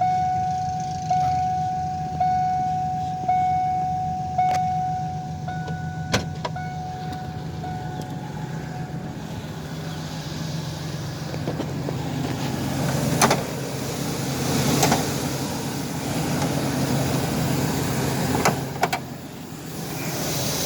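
Ford E-150 van engine idling steadily. For the first nine seconds a dashboard warning chime dings about once a second, then stops; a few sharp clicks and knocks come later.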